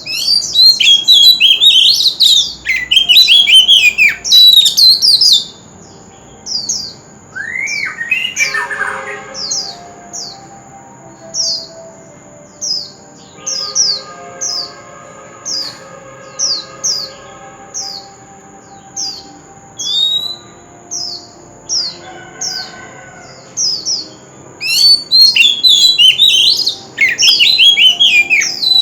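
Oriental magpie-robin singing. Rich, varied warbling phrases open the song and return near the end; between them a long series of short, high, falling notes comes roughly once a second.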